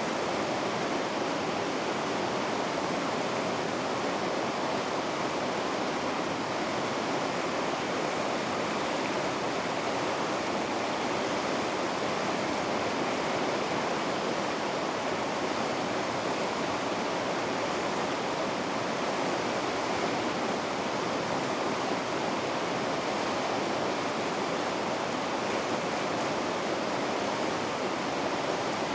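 Rushing water of river rapids pouring steadily over rocks, an unbroken even rush with no change in level.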